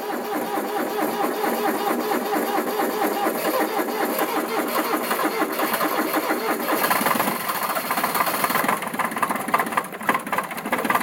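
Kubota B1-15 tractor's diesel engine being cranked by the starter motor in freezing cold with its glow plugs not working. The steady cranking rhythm turns uneven and louder about seven seconds in as the engine nearly fires, but it does not catch.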